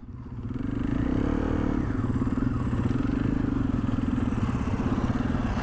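Snowmobile engine picking up revs over about the first second, then running at steady revs with a fast, even firing pulse.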